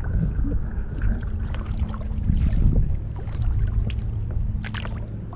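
Water sloshing and splashing around a kayak, with wind rumbling on the microphone and a few short knocks near the end.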